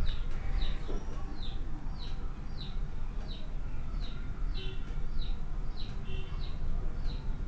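A small bird chirping over and over, short high chirps that slide downward, about two a second and very even.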